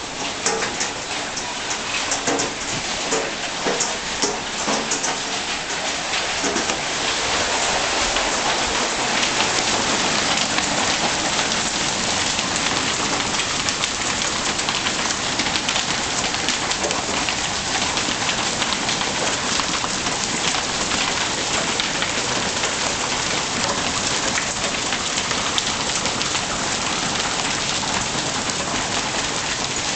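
Heavy thunderstorm downpour pounding on surfaces, with hail pelting down: sharp ticks of hailstones stand out in the first few seconds. About seven seconds in, the rain grows louder and turns into a steady roar.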